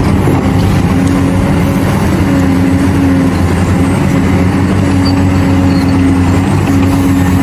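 Heavy diesel engine running steadily at one constant pitch, one of its tones swelling and fading every couple of seconds.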